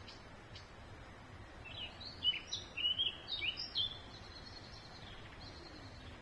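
A songbird sings one short phrase of quick, varied chirping notes, starting about two seconds in and lasting about two seconds, over steady low background noise.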